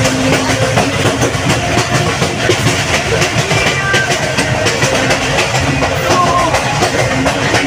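Passenger train coach running steadily along the track, heard from inside the carriage: a continuous rumble and rattle with repeated clicking of the wheels over the rails.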